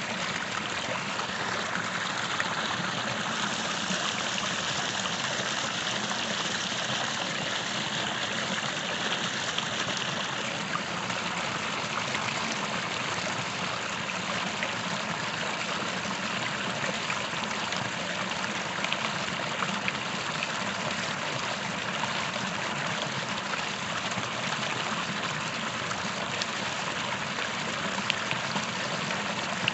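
Small creek flowing steadily, a continuous trickling and babbling of running water with faint little plinks of water here and there.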